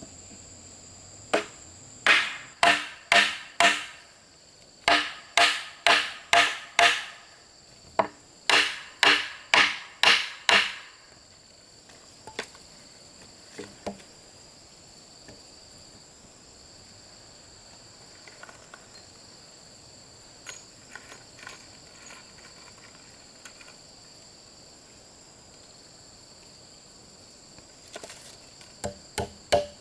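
Bamboo being struck hard with a tool, in three runs of four or five ringing blows, followed by a few lighter, scattered taps and another short run near the end. Insects trill in a steady high drone throughout.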